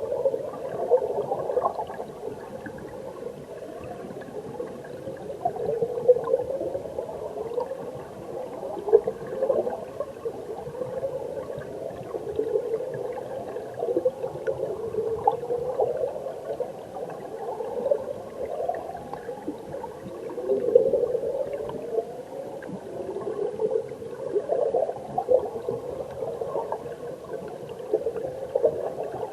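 Mountain stream current heard underwater: a continuous gurgling rush of flowing water and bubbles, swelling and easing every second or two.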